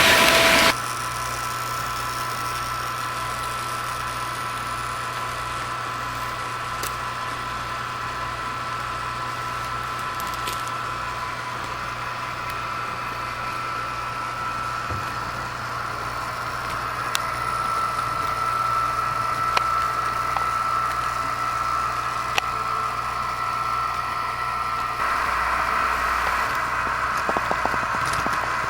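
Märklin HO-scale model diesel locomotive running on the layout: a steady engine-like drone with a hum and occasional light clicks. It grows a little louder about 17 seconds in and again about 25 seconds in.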